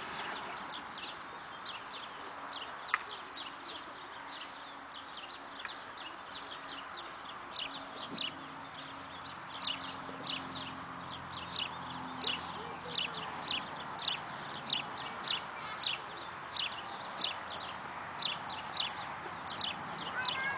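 A bird calling over and over with short, high, falling chirps, about two a second, louder in the second half, over a steady outdoor hiss.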